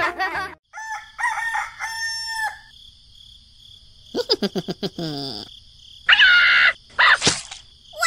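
A string of short comic sound effects over a faint steady high whine. There are pitched chirps in the first two seconds, a quick run of falling whistles about halfway through, and two louder calls near the end.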